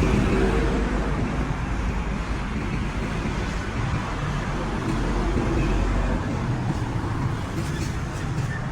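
Road traffic: vehicle engines and tyre noise running past, with an engine's hum most noticeable in the first second.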